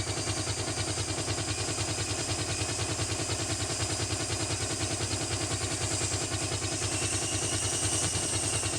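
Small electric RC helicopter running: a steady high motor whine over the fast, even chop of its rotor blades. A second, lower whine comes in near the end.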